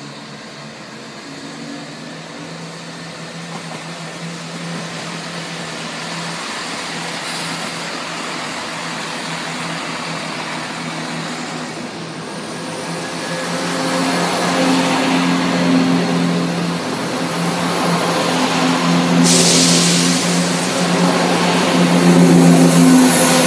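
Class 168 diesel multiple unit running into the platform, its underfloor diesel engines giving a steady low drone that grows louder as the train draws alongside. About three-quarters of the way through, a sudden burst of air hiss lasts about a second.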